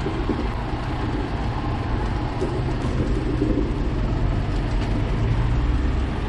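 Steady low rumble of road and wind noise while riding a bicycle along a town street.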